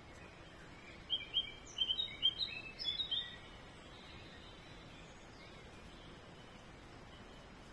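A songbird singing one short phrase of quick chirping notes, lasting about two seconds, over a steady background hiss.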